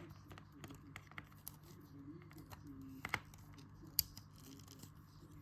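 Small plastic LEGO pieces clicking and tapping as hands handle and sort them, a scattering of light clicks with two sharper ones about three and four seconds in.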